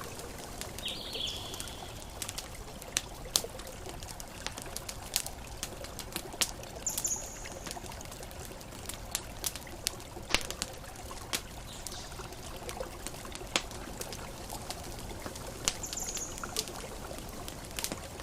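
Campfire crackling, with irregular sharp pops, over a steady wash of ocean waves. A few short high bird chirps come and go.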